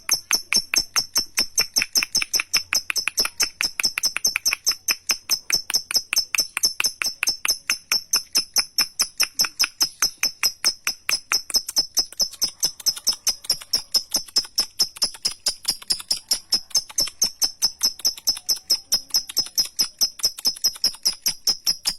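Lovebird's long 'ngekek' call: an unbroken run of shrill, rapid chattering notes, about four or five a second, kept up without a pause.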